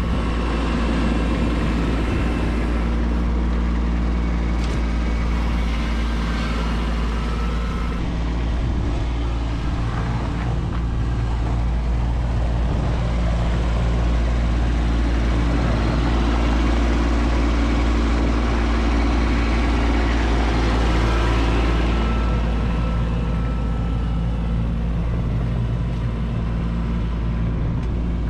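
Kubota B2601 compact tractor's three-cylinder diesel engine running steadily, its note shifting about eight seconds in and growing a little louder around twenty seconds in.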